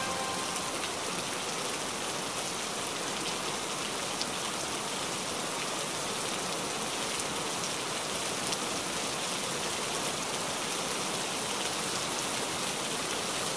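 Steady rain falling in an even hiss, with an occasional single drop tick standing out.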